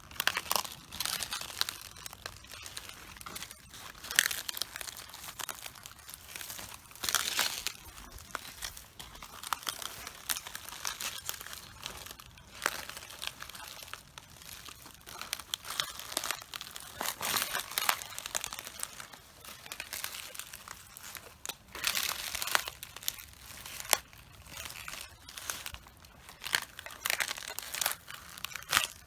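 Footsteps treading on cabbages: the leaves crunch, crackle and tear underfoot in irregular bursts.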